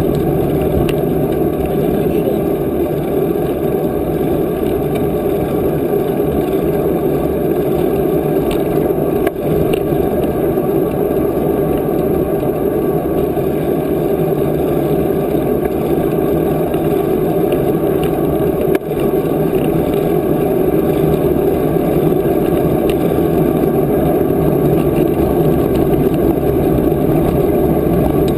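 Steady wind rumble on the microphone of a moving bicycle ride, loud and even, with two brief dips.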